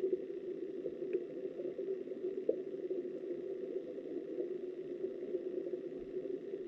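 Flowing river water heard underwater through a submerged camera: a steady, muffled rushing, with a couple of faint clicks about one and two and a half seconds in.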